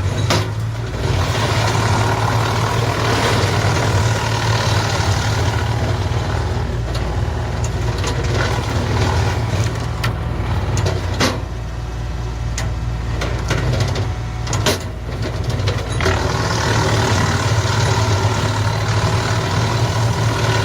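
A tractor PTO-driven hydraulic-feed wood chipper running with the tractor engine: a steady, loud drone with sharp cracks every few seconds as branches are chipped.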